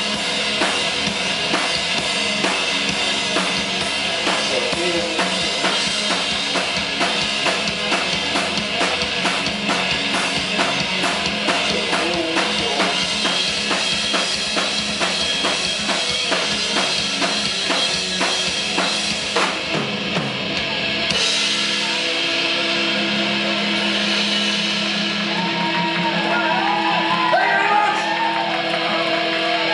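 Rock band playing live with drum kit, bass and electric guitar; about two-thirds of the way through the drums and bass stop, leaving guitar notes ringing out as the song closes.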